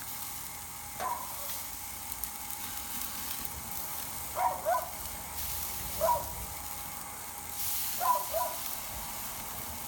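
A steady hiss with a few short chirps, some single and some in pairs, a couple of seconds apart.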